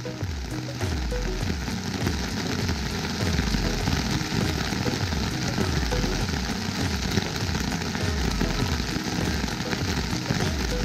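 Steady rain falling on a tent's nylon fly, heard from inside the tent, an even hiss over an uneven low rumble.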